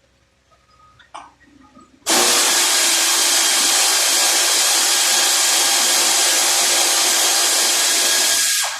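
A workshop power tool runs loudly and steadily for about six seconds, with a hiss-like whir. It starts abruptly about two seconds in and cuts off just before the end.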